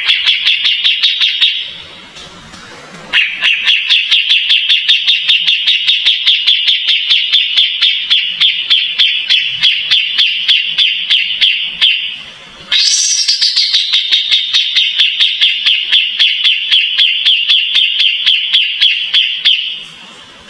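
Cage bird giving long, rapid runs of evenly repeated chattering notes, about four to five a second, in three bouts separated by brief pauses. The third bout opens with a quick falling note.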